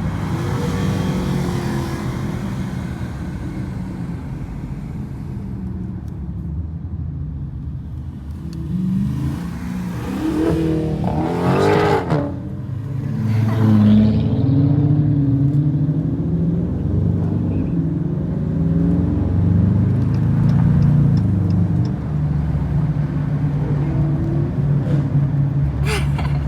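Dodge Challenger V8 engine and exhaust under way, a steady low drone that swells into a hard acceleration around the middle, its pitch climbing and falling, then settles back to a steady cruise.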